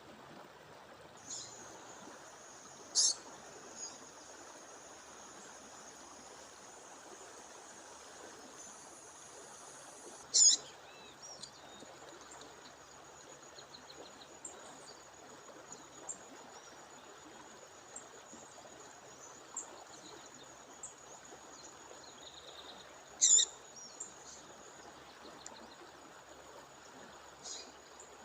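Female songbird giving three loud, sharp, short calls spaced well apart, with a few softer chirps between them, over the steady rush of a waterfall. A thin steady high note runs beneath from early on.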